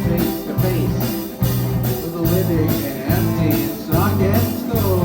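Live rock band playing a song: the drum kit keeps a steady beat with evenly spaced cymbal strokes, under a bass line and guitar, with sliding, bending notes near the end.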